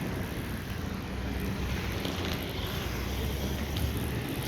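Roller skate wheels rolling steadily over a smooth terminal floor, a continuous low rumble with a hiss above it.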